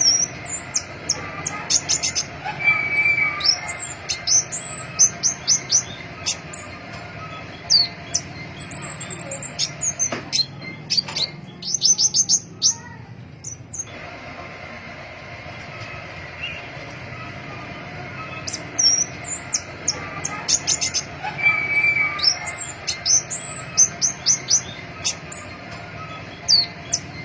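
Pentis pelangi flowerpecker calling: clusters of short, high, thin chirps and quick ticking notes, with a quieter lull of a few seconds near the middle, over a steady low background hum.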